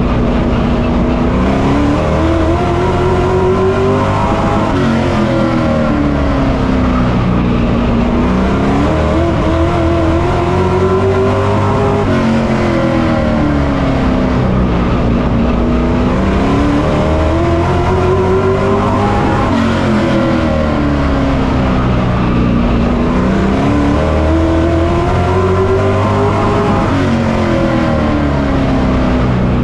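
Pro Truck race truck's engine heard on board, loud and constant. Its pitch climbs for several seconds as it accelerates, then drops as the driver lifts, over and over at racing speed around a short oval.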